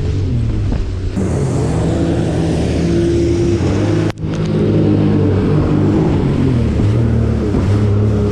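Jet ski engine running steadily, its pitch wandering up and down a little, with a momentary break about four seconds in.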